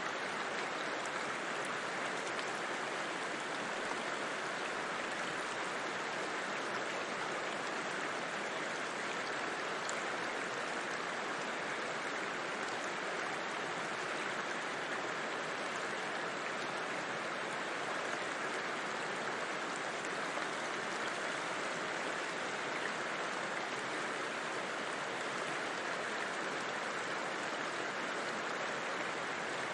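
A river flowing: a steady, unbroken rush of water at an even level.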